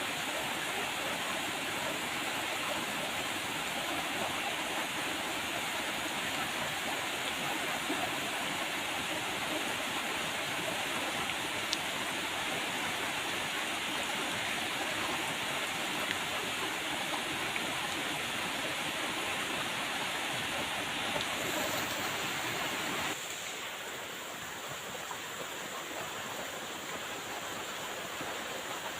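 Steady rain falling, an even hiss with a few faint drip ticks. About three-quarters of the way through it drops suddenly to a softer, duller rain.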